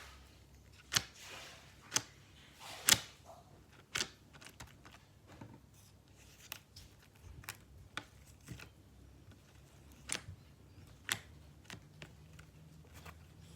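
Homemade glue-and-toothpaste slime being worked by hand, giving off irregular sharp clicks and sticky pops with short squelching smears in between.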